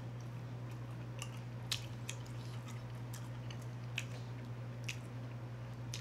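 Close-miked chewing and wet mouth sounds of a person eating bone-in chicken wings, with a few short sharp wet clicks, over a steady low hum.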